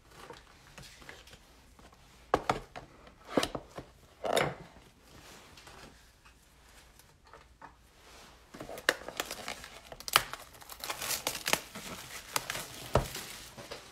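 Plastic trading-card packaging crinkling and tearing as it is handled and opened, in irregular rustles and sharp clicks that grow busier in the second half.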